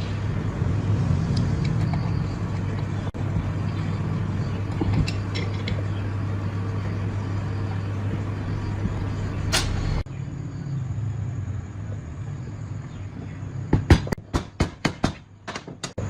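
A motor runs steadily with a low, even hum, then stops abruptly about two-thirds of the way through. Near the end comes a quick, irregular series of sharp knocks or taps.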